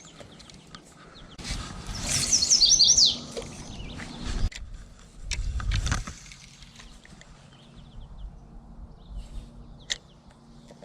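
A songbird singing a quick run of falling chirps about two seconds in, over loud rustling and handling noise close to the microphone, followed by a few scattered chirps and ticks.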